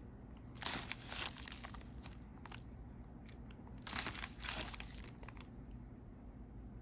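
Plastic Ziploc bag of beach sand being handled, crinkling in a few short rustles with a light crunch of sand.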